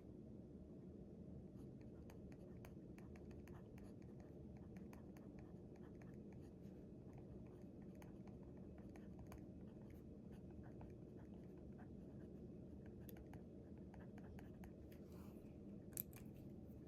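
Faint pen writing on paper, with many small irregular scratches and ticks over a steady low room hum. A sharper click comes about a second before the end.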